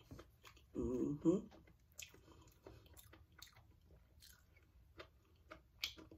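Close-miked chewing and wet mouth sounds of someone eating mashed potatoes, with small sharp clicks of a plastic fork against the food and container. A short hummed voice sound comes about a second in and is the loudest thing.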